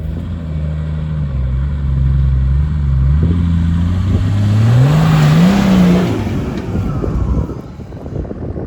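An off-road vehicle's engine under load, accelerating with its pitch climbing in steps, loudest with a rush of noise about five to six seconds in, then dropping away.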